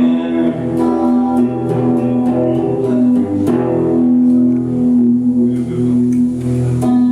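Live rock band playing an instrumental passage: electric guitars and bass holding sustained chords, with light cymbal ticks.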